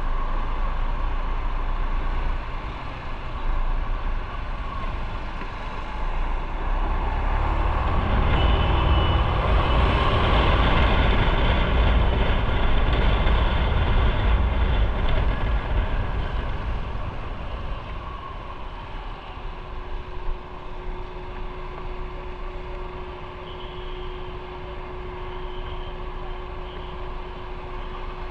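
Motorcycle on the move in traffic: steady engine rumble with rushing noise that grows louder for several seconds in the middle, as the bike picks up speed, then eases back down.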